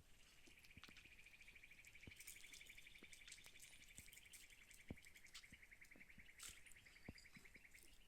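Faint, high-pitched insect trill: a rapid, even pulsing held for nearly eight seconds, with scattered soft ticks.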